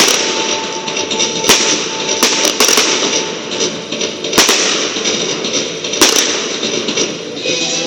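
Fireworks exploding: a run of sharp bangs, several in quick succession about two and a half seconds in and the loudest about six seconds in, over continuous crackling and music.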